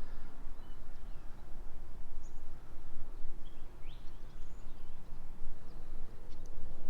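Brief, scattered high bird chirps and calls over a steady low outdoor rumble.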